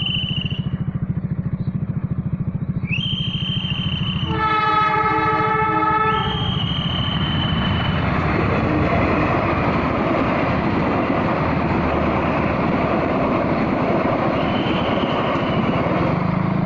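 Train horn sounding several times, one long many-toned blast about four seconds in, followed by the steady noise of the train running past over the crossing.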